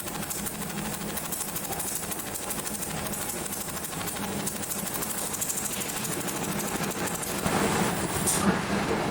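Steady machinery noise with a low hum, growing louder near the end, with a single sharp click shortly before it ends.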